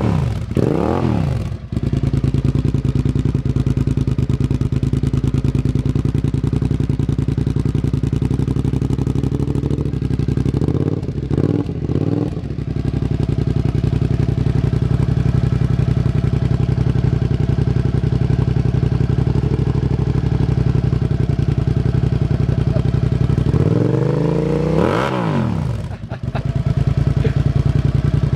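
Suzuki SV650's 90-degree V-twin engine idling steadily and blipped on the throttle: a quick rev at the start, a few short blips about halfway through, and a bigger rev up and back down near the end.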